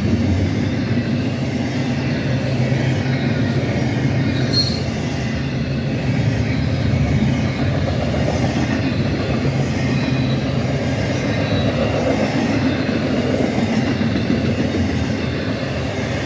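Freight train cars rolling past: a steady rumble and rattle of wheels on the rails, with a few faint high wheel squeals now and then.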